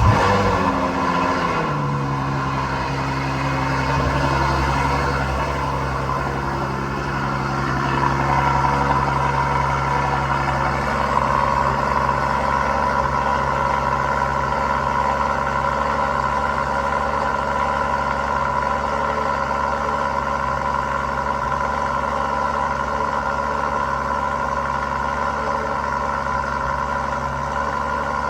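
Ferrari FF's 6.3-litre V12 catching from a cold start with a loud flare. Its pitch drops over about two seconds into a steady, pretty loud high idle. The engine is being loaded down to heat the catalytic converters as quickly as possible.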